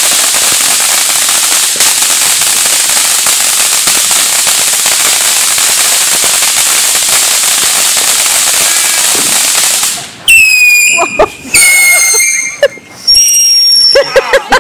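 A ground fountain firework spraying sparks with a loud, steady hiss and faint crackle for about ten seconds, then cutting off suddenly. After it stops come three short, high-pitched squeals.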